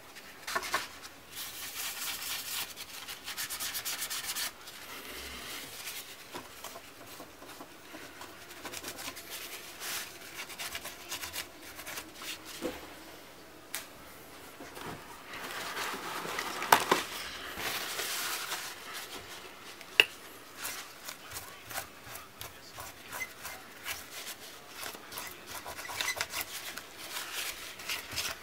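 Hand work on small hardware: repeated rubbing and scraping strokes, broken by a few sharp clicks, the loudest about 17 and 20 seconds in.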